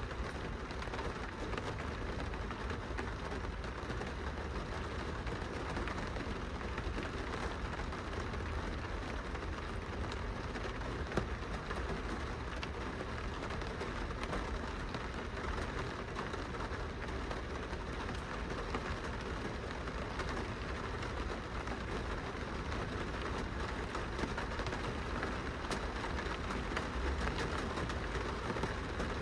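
Steady rain falling on a glass window, an even patter with scattered single drop ticks over a low rumble.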